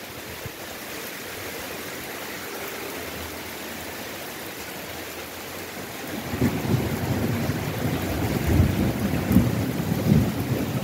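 Heavy rain falling steadily, a constant hiss; about six seconds in a louder, uneven low rumble sets in and continues under the rain.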